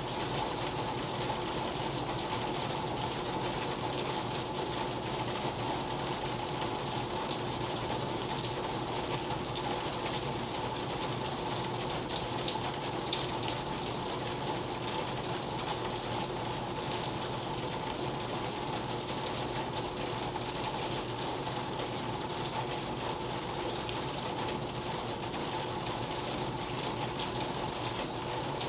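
Steady rain falling, an even hiss of drops, with a couple of brief clicks about twelve seconds in.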